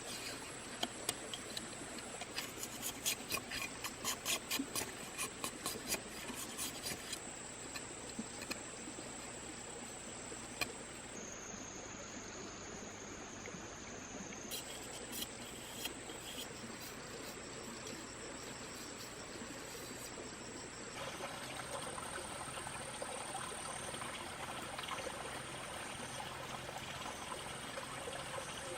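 Forest ambience with a steady high-pitched insect drone. A quick run of sharp knocks or clicks fills the first seven seconds or so. Later, trickling water comes up in the background.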